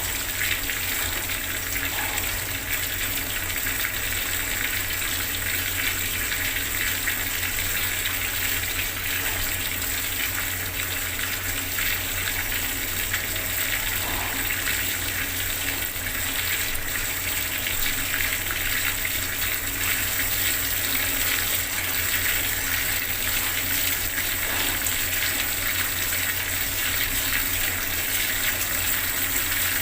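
Bathroom water tap running full, a steady, even gush of water splashing down. A steady low hum lies underneath.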